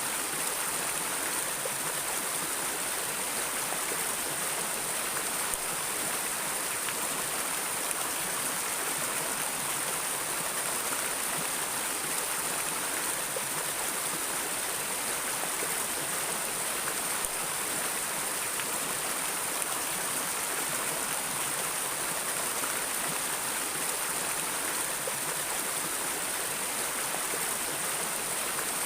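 Flowing water of a stream or river, a steady, even rushing hiss.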